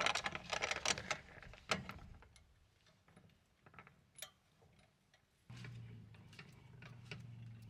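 Metal ticking and clicking of a truck camper's tie-down turnbuckle being tightened, quick clicks at first, then a lone click. About five and a half seconds in, a steady low hum starts under further faint ticks.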